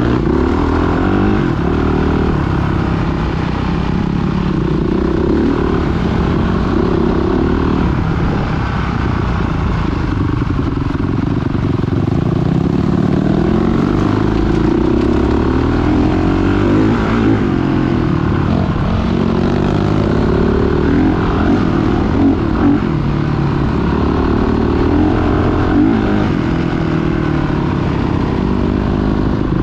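Off-road motorcycle engines running and revving, their pitch rising and falling over and over, with more than one engine heard at once.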